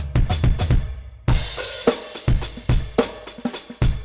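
NUX DM8 electronic drum kit being played: a run of quick hits, a brief break about a second in, then a cymbal crash and a steady beat on kick, snare and hi-hat.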